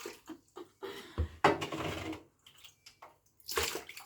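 Wet goo and water sloshing and splashing as it is scooped by hand out of a clogged washing machine that won't drain, in a few short bursts.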